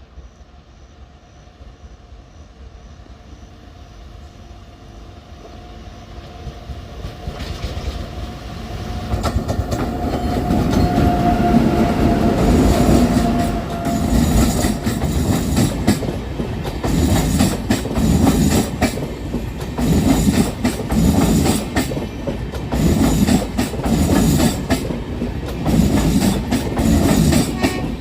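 Express train with LHB coaches approaching and running through at speed without stopping. A rumble grows louder over the first ten seconds as the train nears, then the passing coaches' wheels clatter over the rail joints in regular loud pulses about every second and a half.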